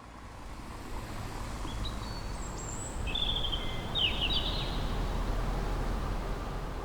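Outdoor ambience fading in: steady low background noise with a few high-pitched bird chirps and a short trill in the middle.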